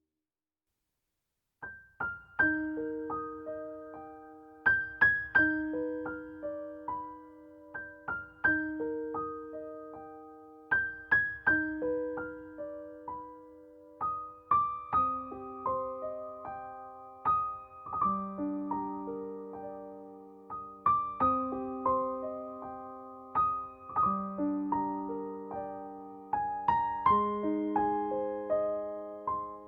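Slow, gentle piano music: after about two seconds of silence, single notes and soft chords are struck and left to ring out and fade, with a slow melody over lower held notes.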